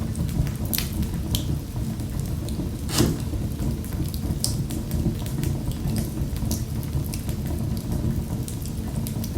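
Wood fire in a fireplace crackling: irregular sharp pops and snaps over a steady low roar of the flames, the loudest pop about three seconds in.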